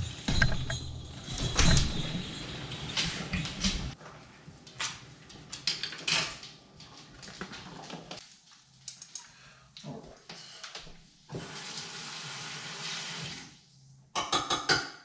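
Kitchen clatter: utensils clinking and knocking against dishes and pans, with a steady hiss lasting about two seconds near the end.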